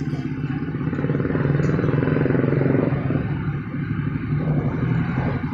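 A motorcycle engine running steadily with a fast low pulse, getting louder for about two seconds before easing back.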